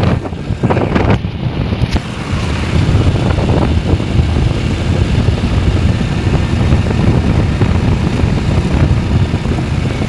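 Wind buffeting the microphone over a steady low rumble, as from a moving vehicle.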